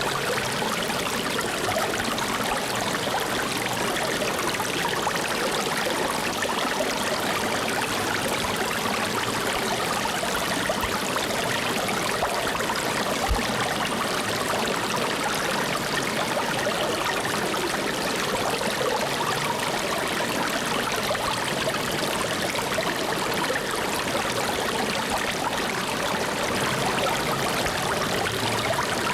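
Flowing water, a steady stream-like rush with no breaks.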